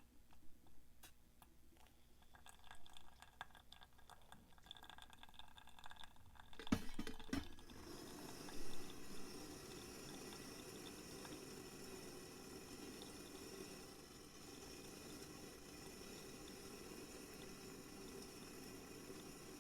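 Faint clicks and handling knocks, with a couple of louder knocks about seven seconds in, then a steady stream of hot water poured from a Trangia kettle into a coffee dripper.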